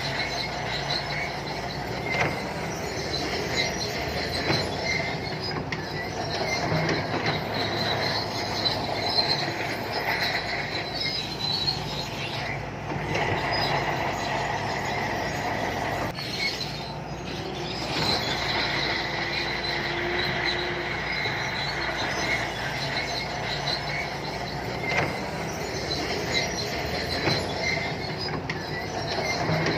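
Shantui crawler bulldozer working: its diesel engine runs steadily under the high squealing and clanking of its steel tracks.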